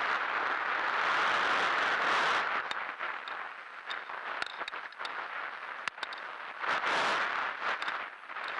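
Hissing rush of a pressurized oxygen leak as made audible by an ultrasonic leak detector receiver. It is strong for the first couple of seconds, fades and wavers, then swells again about seven seconds in as the receiver is passed back over the leak. A few sharp clicks run through it.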